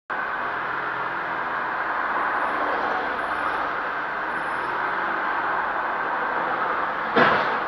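Steady road and engine noise of a moving car, recorded inside the cabin by a dashcam, with one sudden loud thump near the end.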